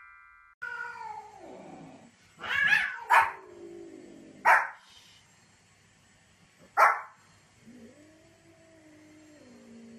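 Pomeranian yapping: sharp, high yaps, two close together about two and a half to three seconds in, then single ones at about four and a half and seven seconds. Between them come long drawn-out calls, one falling in pitch about a second in and one held steady near the end.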